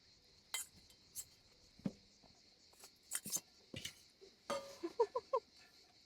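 Dishes and cutlery being handled in short, scattered clinks and knocks, with a quick run of short rising squeaks about five seconds in. A faint steady chirring of insects runs underneath.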